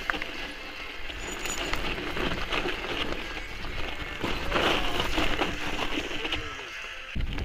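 Loose rock and gravel crunching and clicking under a mountain bike on a stony trail, with the bike rattling; wind buffets the microphone at first and dies away near the end.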